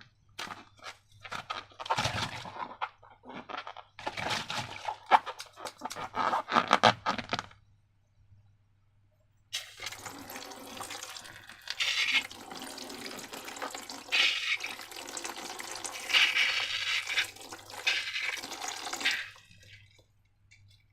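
Wet slime being worked by hand: sticky crackling squelches for the first several seconds, then after a short pause a continuous liquid pouring and gushing sound that swells a few times and stops near the end.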